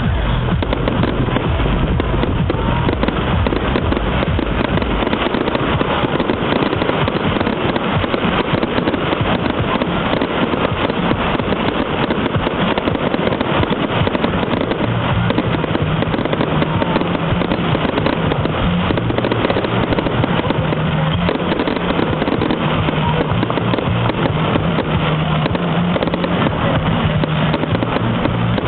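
Fireworks going off in a dense, unbroken barrage of popping and crackling, steady in loudness throughout.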